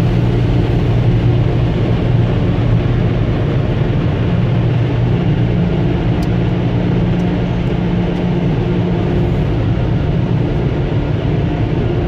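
Touchless car wash dryer blowers running, heard from inside the vehicle: a steady low hum with a rush of air. The dryer is weak, blowing hardly any air and leaving the van still wet.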